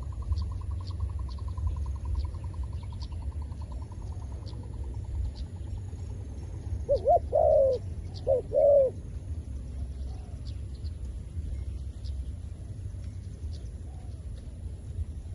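Zebra doves calling: a rapid staccato trill that fades away over the first few seconds, then a few loud cooing notes a little past the middle. A steady low rumble runs underneath.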